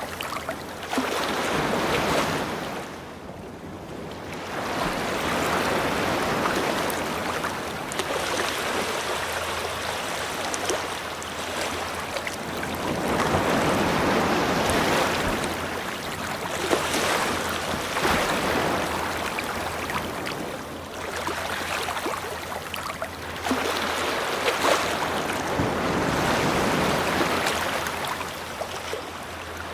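Ocean surf breaking and washing up a beach, swelling and easing every few seconds.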